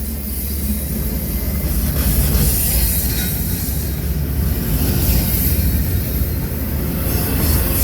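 Train passing close by: a steady low rumble with a hiss of noise above it.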